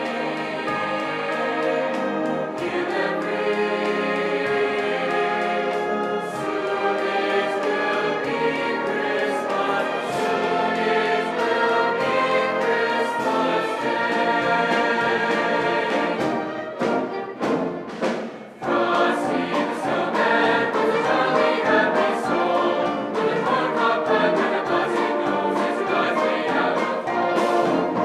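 Choir singing with instrumental accompaniment, briefly dropping away about two-thirds of the way through before coming back in.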